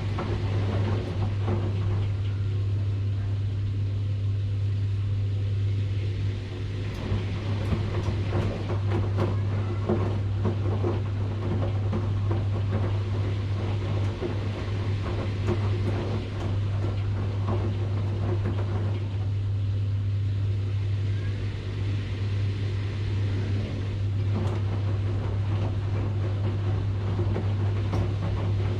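Washing machine running, with a steady low motor hum under it. Stretches of irregular clattering and churning from the drum alternate with calmer stretches a few seconds long.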